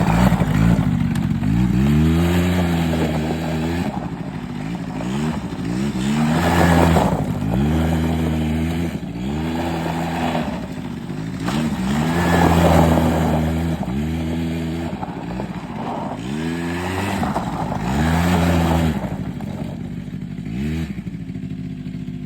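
Small 100cc quad engine revving up and easing off over and over, about every two seconds. The sound grows louder and fades back three times.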